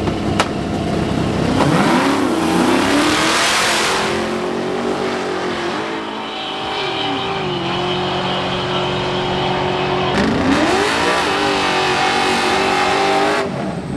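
Big-wheel donk race car's engine revving hard: it climbs about two seconds in and holds a high pitch, drops back about halfway, then climbs and holds high again before cutting off near the end.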